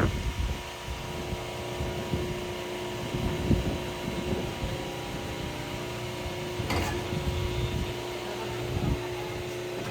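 Sawmill machinery running steadily: an even motor hum with a low rumble under it, and a single short knock about seven seconds in.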